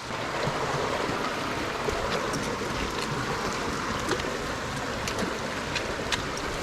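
Creek in high flow rushing steadily over rocks, with a few light taps here and there.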